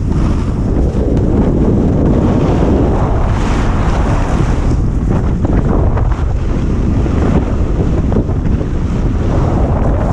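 Wind buffeting the microphone of a GoPro carried by a snowboarder riding downhill. The rush of the board over snow swells and fades twice.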